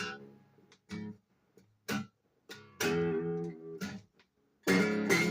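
Acoustic guitar strummed as a slow blues accompaniment: a few short chord strokes with silences between them, one chord left ringing for over a second in the middle, and a strong strum near the end.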